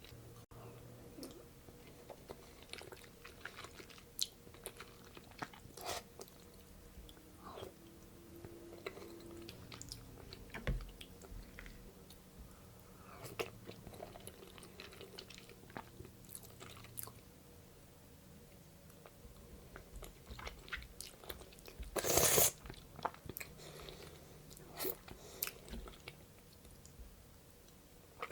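Close-miked mouth sounds of a person eating soft-boiled eggs: chewing and biting with many short wet clicks and smacks, and one louder burst about 22 seconds in.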